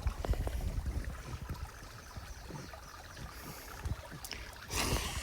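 Shallow creek water moving and sloshing, with low rumble and small knocks from the microphone being handled. A brief rush of noise comes near the end.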